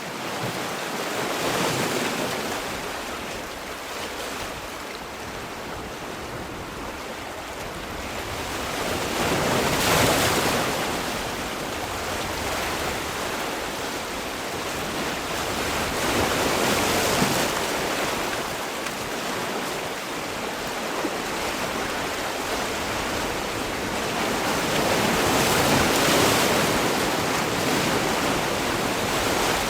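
Sea waves breaking on the shore in a continuous wash, each wave swelling and falling away, with louder breakers about every seven to nine seconds.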